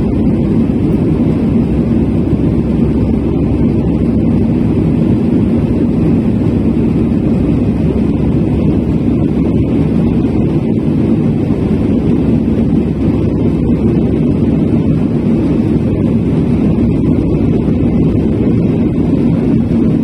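Airbus A319 jet airliner in flight after takeoff, heard from aboard: a steady, even drone of engines and rushing air, with a faint hum held underneath.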